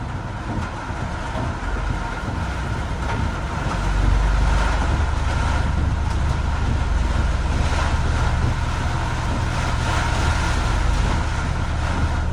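Road traffic in heavy rain: a steady low vehicle rumble under the hiss of rain and wet road noise, growing louder about four seconds in.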